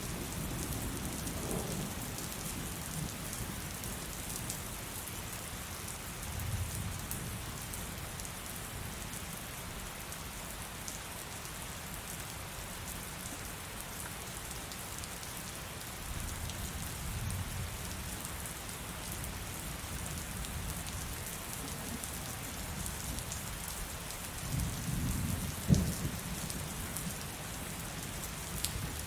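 Heavy rain falling steadily, with low thunder rumbling several times; a louder rumble with a sharp crack comes near the end.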